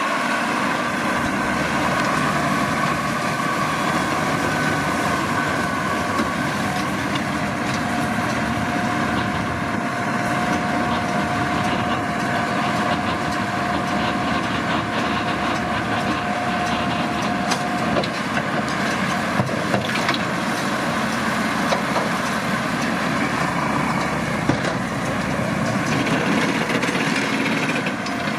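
Massey Ferguson 7620 tractor running steadily while working with a McHale V660 round baler, with a steady mechanical whine from the driveline through the middle.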